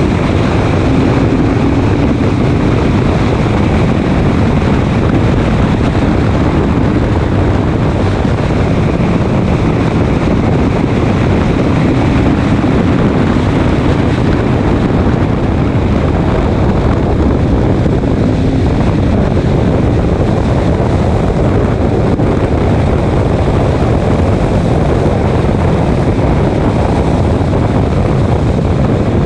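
Race car running at speed on a track, with its engine and rushing wind noise loud and steady throughout.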